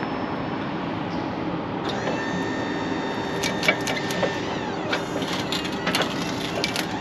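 Wood-Mizer sawmill running with a steady engine drone, a whine from the hydraulics from about two seconds in until about four and a half seconds, and scattered knocks as the log is rolled on the mill.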